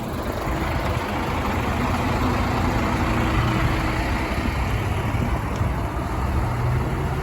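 Bus engine running close by, a steady low engine note under road noise.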